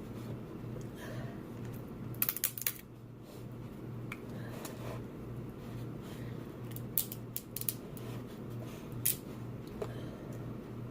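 Crab and crawfish shells being cracked and snapped apart by hand for eating: sharp cracks in short clusters, a quick run of several about two seconds in, more around seven seconds, and a single loud snap near nine seconds, over a steady low hum.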